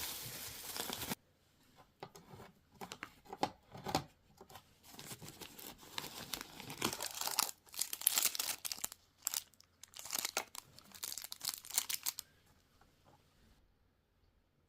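Wrapping being crinkled and torn by hand in irregular bursts of rustling and crackling, ending about 12 seconds in. Background music cuts off about a second in.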